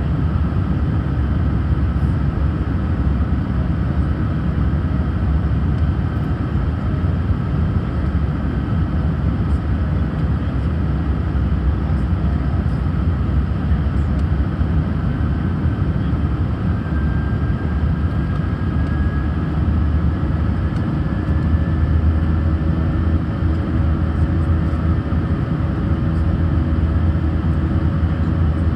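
Airbus A319 jet engine noise heard inside the passenger cabin: a steady, loud rumble with faint whining tones that drift slightly in pitch.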